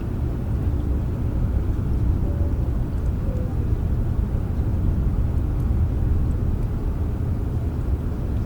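Steady rain, a dense even wash of sound weighted toward a low rumble, with no separate drops or thunder claps standing out.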